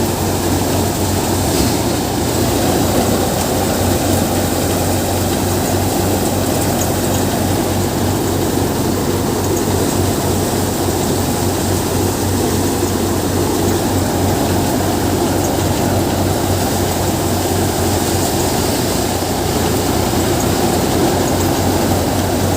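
A tractor-powered paddy thresher running steadily: a Sonalika 50 RX tractor's diesel engine driving a Gill seven-fan thresher, making a continuous low hum under a steady rushing mechanical noise.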